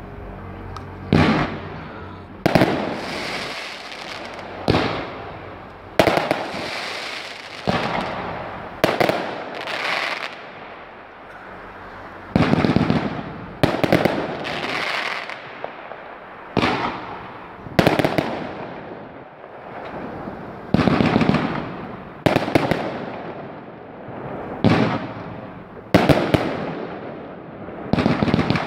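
Fireworks going off in a rapid series of loud bangs, about one every second or so, each followed by a short fading crackle and rumble.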